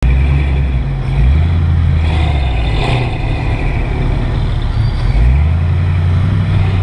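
Car engine running at low speed, a deep steady rumble that shifts slightly in pitch a couple of times as the car creeps forward.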